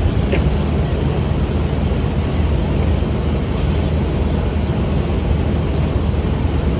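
Pakistan Railways GEU-40 diesel-electric locomotive's engine running with a steady low drone as it moves up to couple to a passenger train.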